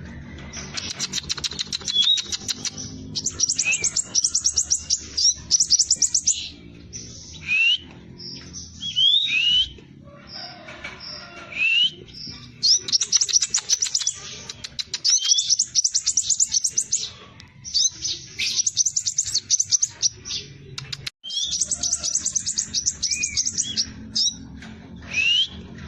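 Scarlet minivet singing: repeated high-pitched phrases of very fast, tightly packed trills, each lasting a second or two, with short rising whistles in between. A faint low hum runs underneath.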